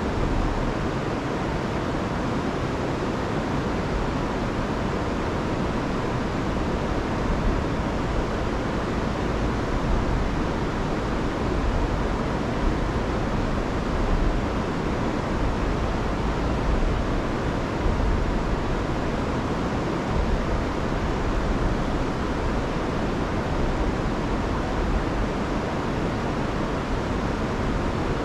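Rain-swollen river rushing over waterfalls in a steady, full roar, loudest in the low range with small swells in loudness.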